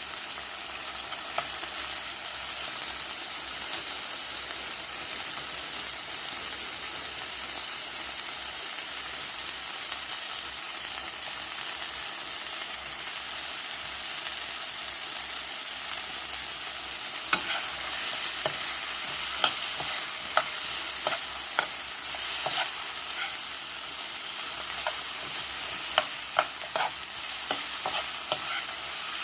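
Chicken gizzards and vegetables sizzling steadily in a hot pan as they are stir-fried. From a little past halfway, a cooking utensil clicks and scrapes against the pan as the food is stirred.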